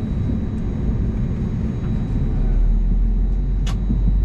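Steady low cabin rumble inside an Airbus A320-251N with its CFM LEAP-1A engines running. The rumble deepens and grows louder about two seconds in, and a single sharp click sounds near the end.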